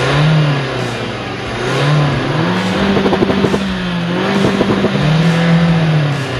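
Renault Sport car engine revving, its pitch climbing and dropping several times, with a rapid crackle in the middle.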